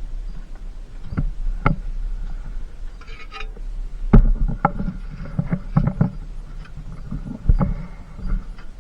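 Irregular knocks and thumps of roof repair work, a few at first, then a busier run of blows in the middle and two more loud ones near the end, with a faint ringing after some of them.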